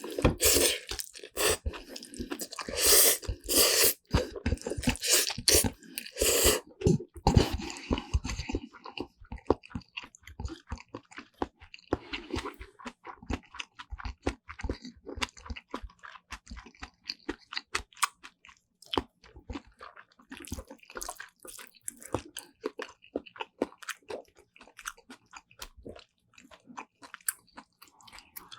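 Close-miked eating sounds of black bean noodles with kimchi and vegetable side dishes: loud crunching bites for the first eight seconds or so, then quieter, rapid wet mouth clicks and smacks of chewing.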